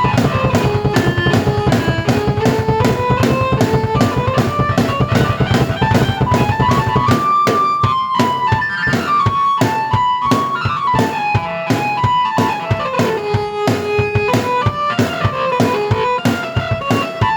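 Drum kit and keyboard played at the same time: a melody moving over a steady drum beat. The deep bass drops out about seven seconds in, while the drums and melody carry on.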